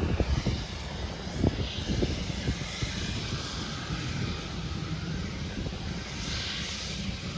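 Airplane engine running steadily, with a hiss that swells about six seconds in. Wind rumbles on the microphone underneath.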